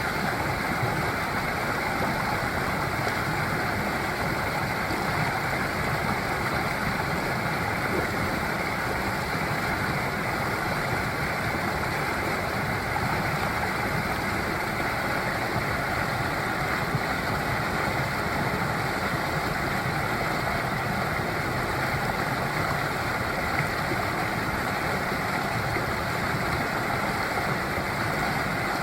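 Mountain valley stream flowing, a steady rushing of water with no breaks or changes.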